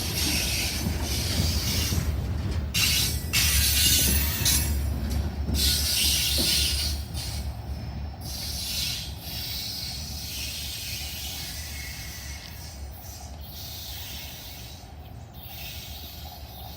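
Freight train cars rolling past on steel rails, with a rumble under a wavering high squeal and hiss from the wheels. The sound fades over the second half.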